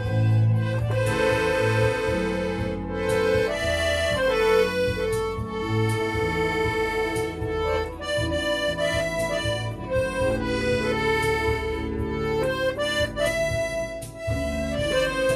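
Accordion played solo: a melody of held reedy notes over low bass notes that come and go beneath it.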